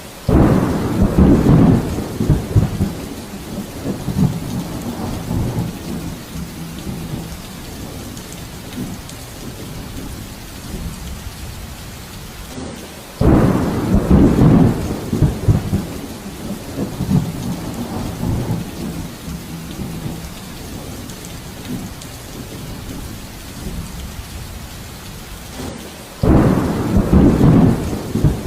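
Steady rain with thunder: three low rumbling peals break in suddenly, one at the start, one about halfway and one near the end, each fading over several seconds under the continuous hiss of rain.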